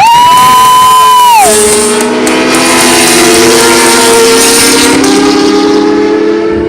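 Racing motorcycle engines at high revs, several notes sounding together and slowly shifting in pitch as the bikes go by. It opens with a loud high held tone that drops away about a second and a half in.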